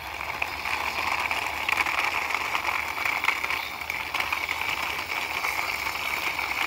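Toy concrete mixer truck pushed along by hand, its plastic wheels and gearing giving a steady rolling rattle.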